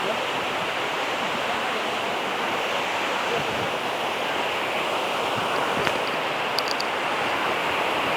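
Waterfall: water falling and rushing, a steady even noise.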